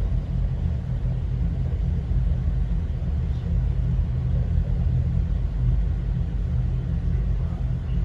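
A steady low rumble throughout.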